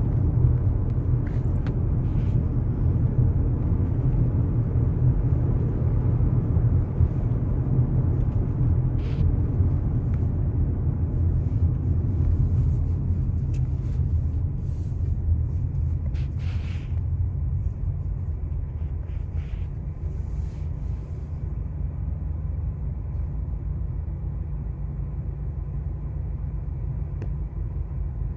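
Steady low rumble of a car travelling on a highway, with road noise, easing off a little about two-thirds of the way through.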